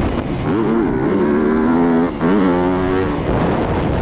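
Motorcycle engine revving hard, its pitch climbing and falling with the throttle, with a brief drop about two seconds in before it climbs again.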